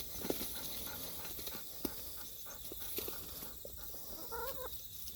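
Scattered soft taps and rustles, with one short hen call about four and a half seconds in, over a steady high hiss.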